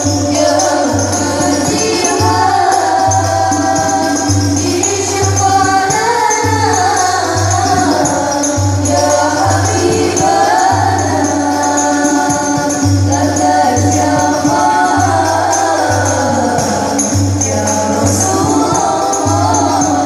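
A group of voices singing a sholawat devotional song in long, gliding melodic lines, over a steady low hand-drum beat about once a second and jingling tambourine.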